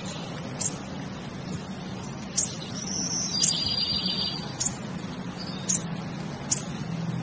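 Short, sharp high chirps about once a second, with two longer high trilling notes in the middle, over a steady low hum.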